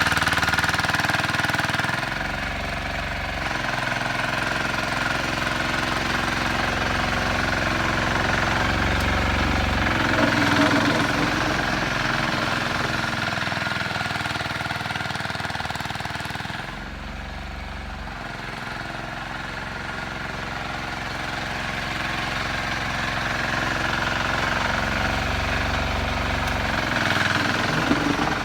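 Sears 8XL garden tractor running and working as it pushes heavy snow, a steady mechanical drone with clattering, its level easing about two-thirds of the way through and building again near the end.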